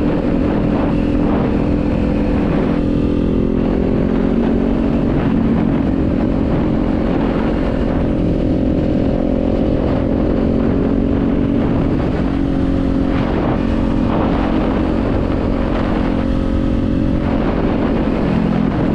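Kawasaki Z400's parallel-twin engine running at a steady cruise, its pitch holding nearly level with small shifts about three seconds in and again around twelve seconds.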